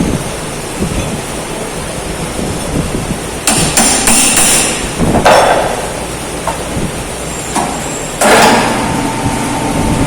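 Metalworking noise: loud bursts of metal being struck and worked about three and a half seconds in and again around five seconds, then another loud burst near the end that settles into a steady tone.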